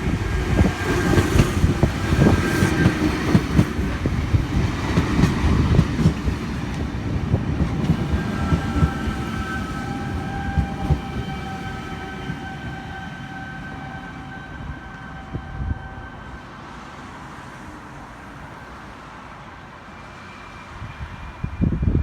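V set double-deck electric intercity train pulling into the platform, its wheels knocking over the rail joints and rumbling. The knocks thin out and fade as it slows, and its brakes squeal steadily for several seconds near the middle as it comes to a stop.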